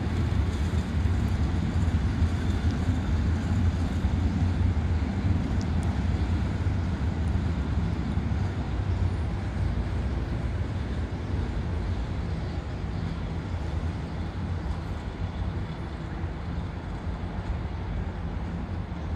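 Passenger train hauled by a General Electric diesel-electric locomotive pulling away: a steady low rumble that slowly fades as the train draws off.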